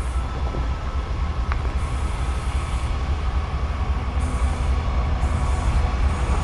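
Heavy freight train running through a rail yard: a steady low rumble of locomotive and wagons, slowly growing louder.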